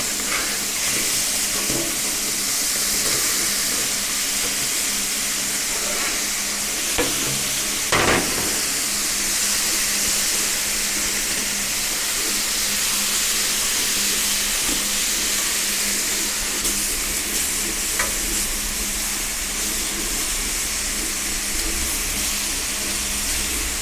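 Pineapple slices and bacon strips sizzling on a preheated flat steel griddle plate of a gas plancha: a steady frying hiss. A few short knocks stand out, the loudest about eight seconds in.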